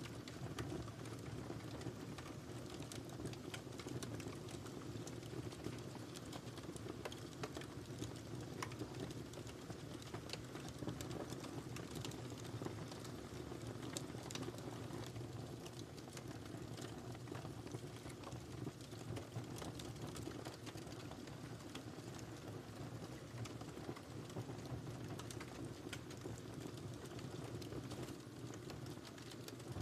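Wood fire crackling in a fireplace: a steady low hiss of burning with frequent small snaps and pops.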